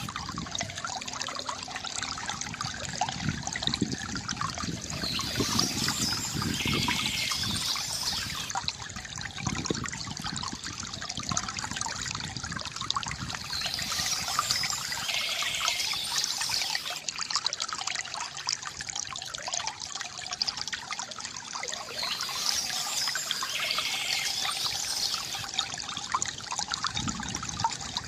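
Water trickling and gurgling steadily from a bamboo fountain, with short bursts of bird chirping coming back about every nine seconds.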